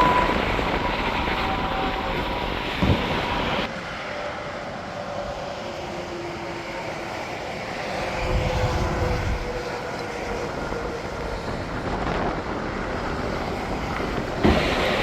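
Semi trucks going by on an interstate highway, their tyre and engine whine sliding slowly down in pitch as they pass, with a low rumble swelling about halfway through. The sound changes abruptly twice, at edits between passes.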